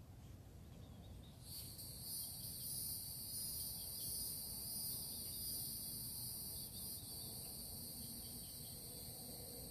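An insect's high-pitched buzzing trill starts about one and a half seconds in and then holds steady, over a low background rumble.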